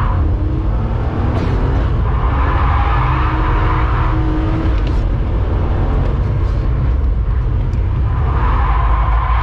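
BMW E90 330i's straight-six engine running hard on track, heard from inside the cabin, its pitch rising as it revs. Tyres squeal through a drift from about one to four seconds in, and again near the end.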